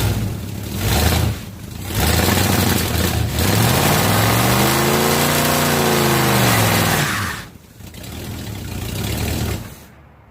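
A '67's 12-bolt rear end running loud and rough, with a whine that climbs in pitch and falls back over a few seconds. The noise eases off and fades near the end. The roughness comes from its damaged ring gear.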